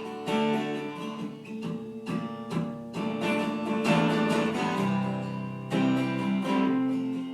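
Acoustic guitar strumming chords in an instrumental break between sung lines.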